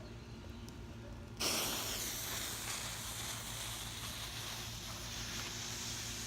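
Firecracker pack's fuse catching light about a second and a half in, then a steady hiss as it burns down.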